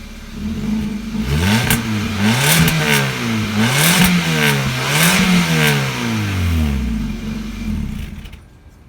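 2013 Kia Rio exhaust with a single catalytic converter and no resonator, the engine revved up from idle three times in a row, each rise and fall in pitch, then settling back to idle. The sound cuts off suddenly near the end.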